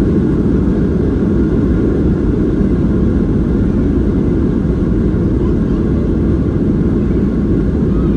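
Steady low roar inside a Boeing 737-800 cabin: the CFM56 engines and the airflow over the airframe, heard from a window seat, unchanging throughout.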